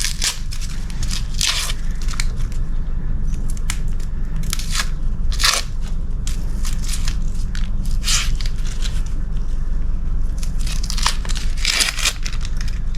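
Dry, papery outer skin of an onion bulb crackling and tearing as it is peeled back by hand, in irregular bursts over a steady low hum.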